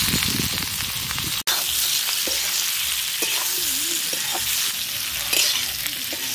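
Cubed potatoes sizzling in hot mustard oil with onions and spice paste in a metal kadai, a metal spatula scraping and stirring them around the pan. There is a momentary break in the sizzle about a second and a half in.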